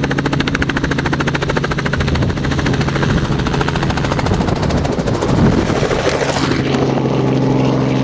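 Tour helicopter running in flight: steady engine drone under a fast, even chop of the rotor blades, with a louder rush of wind about five to six seconds in.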